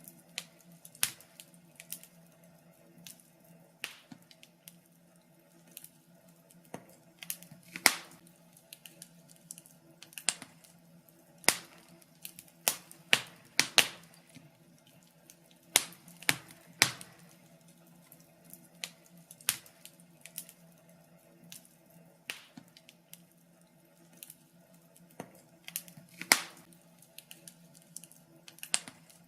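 Wood fire crackling, with irregular sharp pops and snaps, a few of them much louder than the rest.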